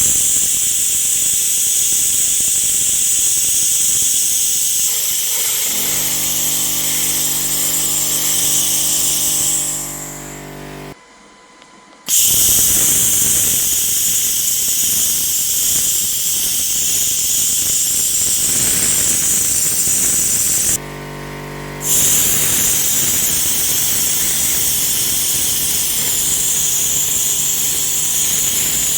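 Handheld pulsed fiber laser ablating rust from an old metal bicycle bell: a loud, steady, high-pitched hiss that stops for about a second twice, around eleven and twenty-one seconds in. A low machine hum runs underneath from about six seconds in.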